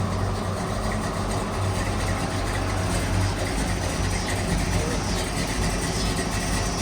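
Engine of a 1941 Chevrolet cab-over truck idling steadily, heard from inside the cab.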